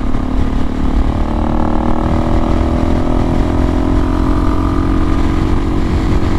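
Suzuki DRZ400S single-cylinder four-stroke engine, breathing through an FMF PowerCore slip-on exhaust, running as the bike rides off. Its pitch rises gently about a second in and then holds steady.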